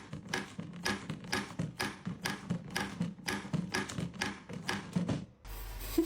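Rapid, even tapping or clicking, about four taps a second, stopping suddenly about five seconds in.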